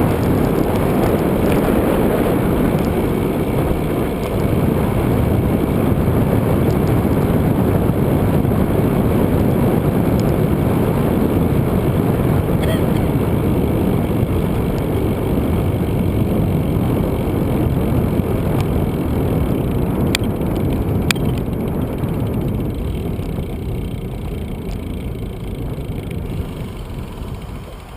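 Steady rushing wind and road noise from a moving bicycle, strongest at the low end, easing off over the last few seconds. Two faint clicks come about two-thirds of the way through.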